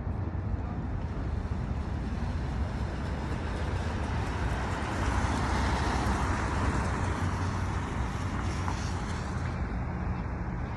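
Street traffic rumbling steadily, swelling as a vehicle passes about halfway through, then easing off near the end.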